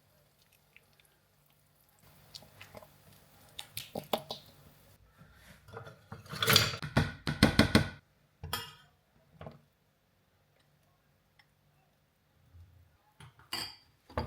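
Dishes and cutlery clinking and clattering: scattered sharp knocks and clinks, with a dense, loud flurry of clatter about six to eight seconds in and another brief clatter near the end.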